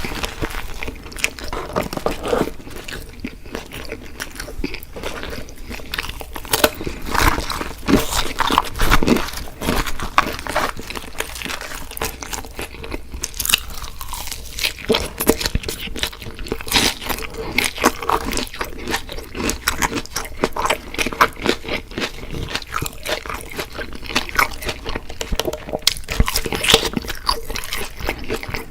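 Close-miked eating of fried chicken: crunchy bites into crispy breading and wet chewing, with many irregular crackles and clicks throughout.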